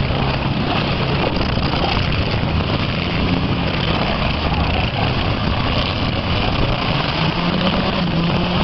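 Demolition derby cars' engines running loudly together, with one engine revving up near the end.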